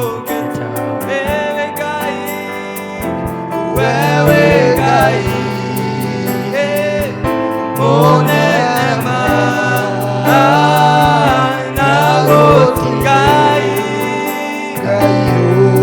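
Gospel worship song: voices singing over a band, with a held bass line and a steady drum beat.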